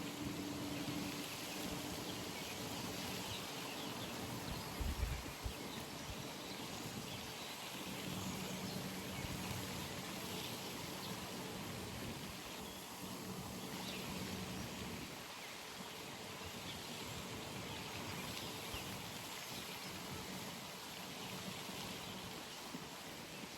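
Outdoor pond ambience: a steady, even wash of natural noise, with a faint low hum for several seconds mid-way and a single low thump about five seconds in.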